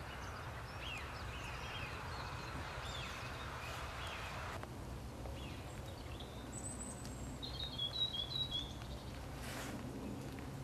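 Outdoor wetland ambience with small birds calling: short chirps in the first half, then a quick run of higher, louder notes about three-quarters of the way through, over a steady low rumble.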